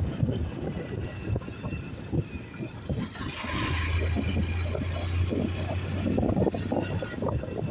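Honda 160 single-cylinder motorcycle engine running while riding, with wind buffeting the microphone in irregular gusts. The engine note holds steady for a second or two about halfway through.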